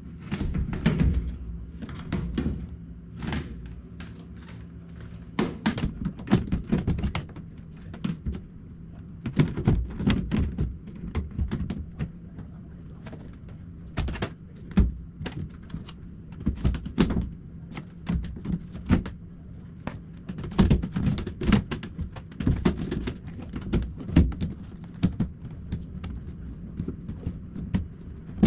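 LG direct-drive inverter washing machine running with a steady low motor hum, its drum turning so the load drops with irregular thunks and knocks every second or so.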